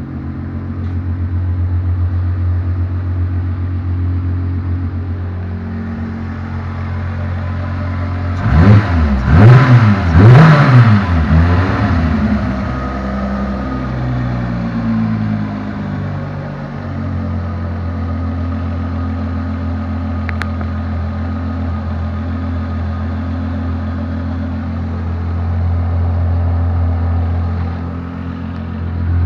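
1993 SLC's engine running shortly after a cold start. It idles steadily, is revved in three quick blips about 8 to 12 seconds in, and drops back to a steady idle, which settles a little lower about halfway through.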